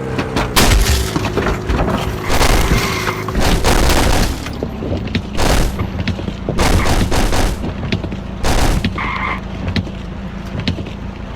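Car crash impacts: a run of loud bangs and crunches over a steady low hum, growing fewer and weaker near the end.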